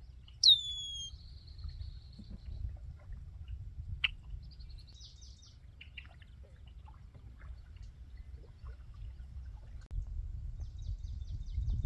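Wild birds calling: about half a second in, a loud call sweeps down in pitch and runs into a buzzy trill lasting about two seconds, followed by scattered short chirps and trills, over a steady low rumble.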